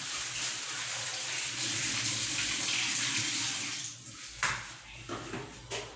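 Kitchen sink tap running as a plastic item is rinsed under it. The water shuts off about four seconds in, followed by a few light knocks.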